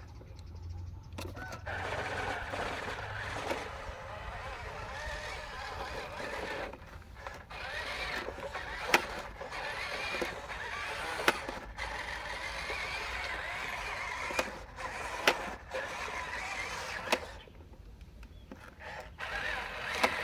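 Small electric motors and plastic gearboxes of radio-controlled Huina toy construction vehicles whirring, wavering in pitch as they are driven, pausing briefly near the start and again near the end, with a few sharp plastic clicks.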